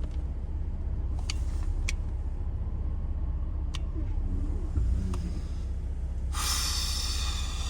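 Vehicle engine idling with a steady low rumble, a few light clicks over it. A loud hiss comes in about six seconds in.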